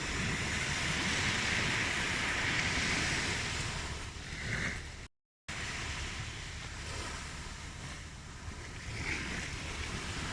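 Recorded ocean waves washing onto a shore, a steady surf that swells in the first few seconds. It cuts out completely for a split second a little past halfway, then carries on.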